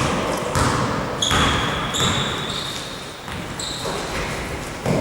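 Basketball dribbled on a hardwood court in a gym hall: a string of ball bounces about every half second to second, with high sneaker squeaks on the floor in the middle and near the end.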